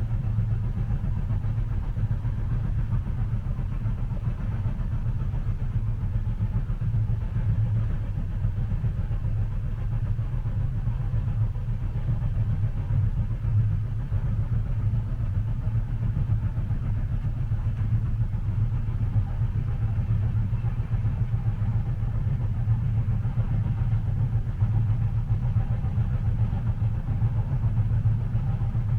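Steady low rumble of a moving train heard from inside a passenger carriage, an even drone without distinct knocks.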